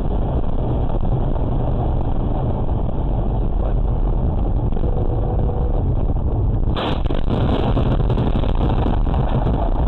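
Steady low rumble of a moving car's road and engine noise, heard from inside the vehicle. About seven seconds in, a sudden harsher hiss with crackling joins in and keeps going.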